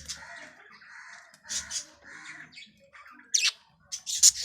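Budgies giving a run of short, harsh, raspy squawks, the loudest a few near the end.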